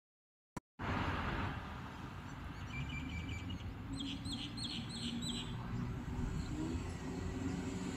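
Outdoor ambience that cuts in with a click: small birds chirping over a low steady rumble. A rapid string of short high chirps comes about three seconds in, then five quick downward-sweeping calls.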